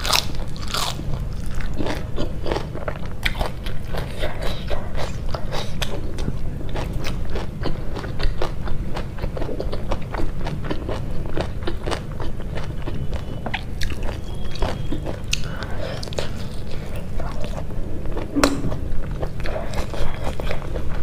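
A person eating close to a clip-on microphone: biting and crunching raw green leaves and chewing pork curry with rice, with many short wet mouth clicks.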